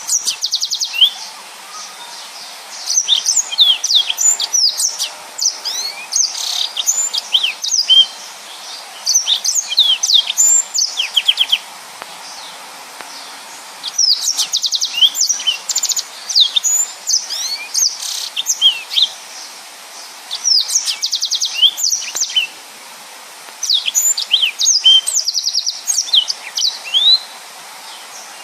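Yellow-fronted canary (Mozambique canary) singing in dense bouts of fast twittering, with quick trills and rising and falling whistled notes, each bout a few seconds long with brief pauses between them.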